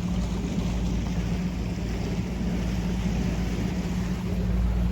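Tour boat's motor running steadily at cruising speed, a low even drone, with a hiss of water and wind over the hull.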